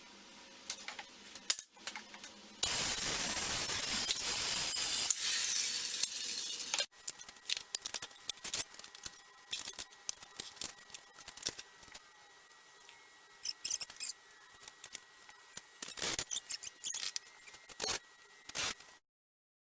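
Workshop sounds of a wooden box being built: scattered clicks and taps of handling wood and tools, with about four seconds of steady hissing noise from a tool a few seconds in that starts and stops abruptly.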